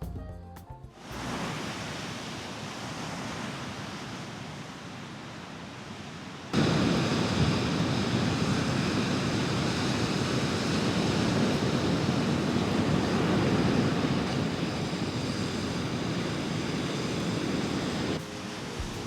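Ocean surf rushing steadily on the shore; it jumps abruptly louder about six and a half seconds in, and music comes back in near the end.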